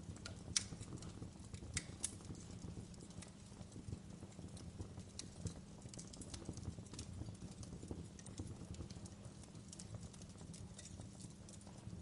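Wood fire crackling, with sharp pops at irregular intervals, the loudest in the first two seconds, over a low steady rumble.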